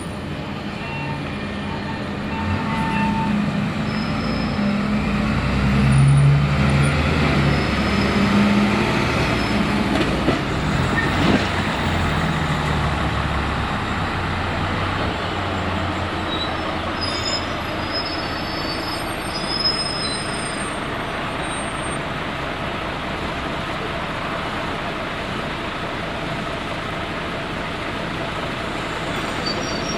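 Diesel engine of a fire truck running at low speed. The rumble builds over the first few seconds and is loudest about six seconds in, then eases to a steady background noise. No sirens are sounding.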